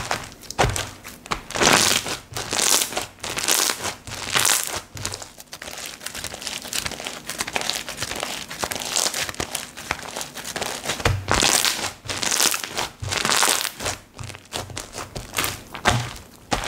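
Slime being squished, poked and stretched by hand: a run of crinkly, crackling squelches with irregular louder presses about once a second.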